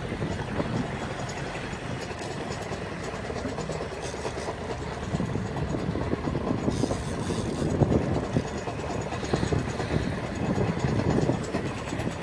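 Small fishing boat's engine running steadily while trolling, growing somewhat louder in the second half.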